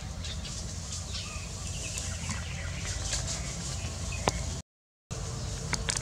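Faint bird calls over a steady low rumble, with a sharp click about four seconds in; the sound then drops out completely for about half a second.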